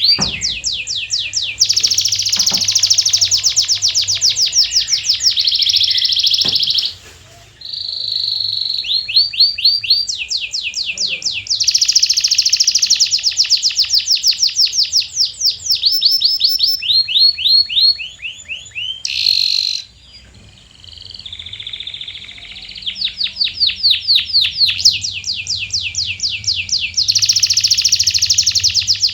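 Domestic canary singing in long rolling trills, each a fast run of the same repeated note, changing from one trill to the next. There are brief pauses about seven seconds in and again about twenty seconds in.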